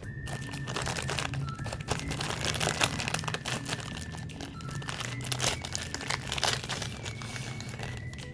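Packaging of a snack cake or cookie crinkling and crackling irregularly as it is handled and unwrapped.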